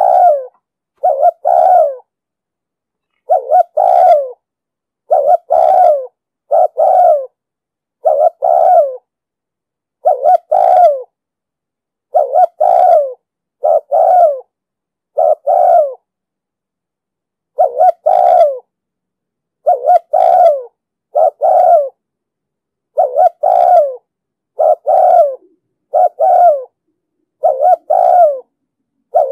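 Spotted dove cooing in a steady series of short two-part coos, about one every second and a half, with two slightly longer pauses between them: the 'thúc gù' coo series that keepers play to train and lure wild doves.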